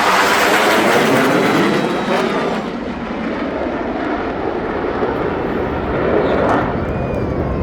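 Military jet aircraft flying over with a loud, continuous jet roar. The roar eases slightly about three seconds in, then holds steady.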